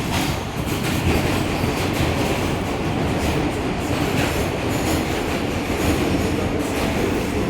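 R160A subway train running along the track, heard from inside the car: a steady loud rumble with the clack of wheels over rail joints.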